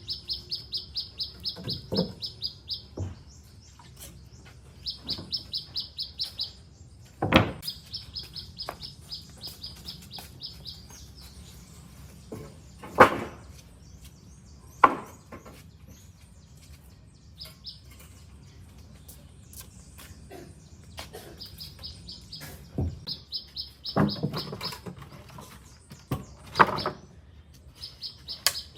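A bird calling in repeated rapid chirping trills, each a second or two long, several times over. Occasional sharp knocks and thuds, the loudest sounds, come in between.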